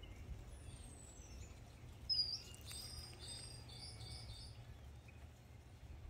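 Birds chirping: scattered short high chirps and whistles, the sharpest and loudest about two seconds in, over a steady low rumble.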